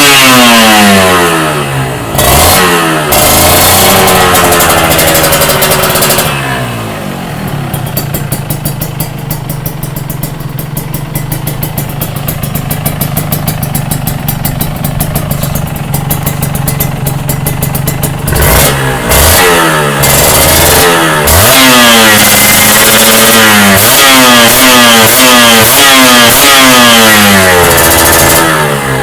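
Kawasaki Ninja R two-stroke motorcycle engine through an aftermarket S.I.R silencer exhaust. It is revved and drops back, idles steadily for about twelve seconds, then is blipped over and over in short quick revs near the end.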